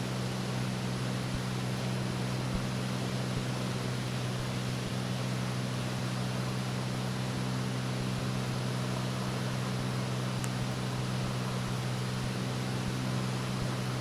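Cessna 206's piston engine and propeller droning steadily in flight, heard inside the cockpit as an even low hum over a wash of air noise, with no change in pitch.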